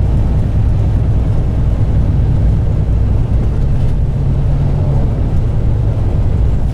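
Semi-truck diesel engine and road noise heard from inside the cab while driving on the highway: a steady low rumble.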